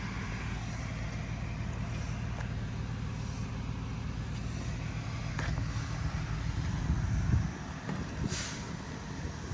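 A truck engine running steadily, growing a little louder and then dropping away suddenly about seven and a half seconds in. A short hiss follows about a second later.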